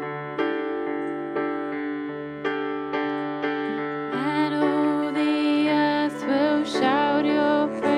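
Worship-band music: electric piano chords struck about once a second, joined about halfway by a held melody line with vibrato.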